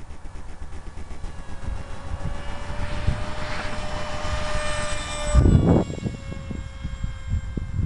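Small RC flying wing's motor and propeller whining in flight, swelling louder over a few seconds and then dropping away suddenly about five seconds in. Gusts of wind buffet the microphone throughout, the strongest just after the whine drops.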